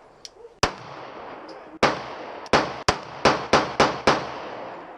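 Gunshots: about eight sharp shots, two spaced apart early on, then a quicker run of six in the second half, each followed by a short echoing tail.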